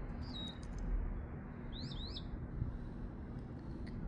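Northern mockingbird singing: a short high note that slides down and holds, then about a second and a half later two quick high notes that each rise and drop sharply.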